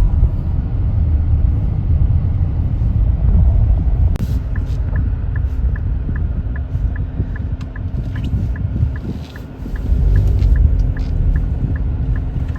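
Car cabin rumble of engine and road noise while driving. A single knock about four seconds in, then the turn-signal indicator ticking steadily about two and a half times a second.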